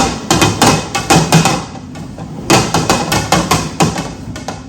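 Objects being shuffled on a table, knocking and clacking against it and each other several times a second, with a short lull about two seconds in before the knocking starts again.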